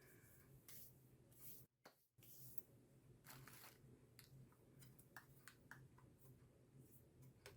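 Faint makeup application sounds: soft brush swishes and light clicks from handling makeup containers, over a low steady hum.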